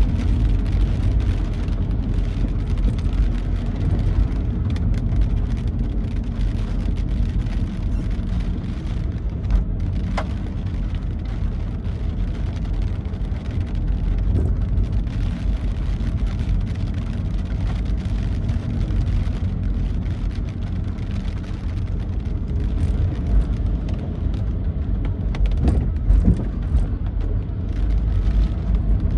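Vehicle driving on a wet road in the rain: a steady low rumble of engine and road noise with the hiss of rain and spray.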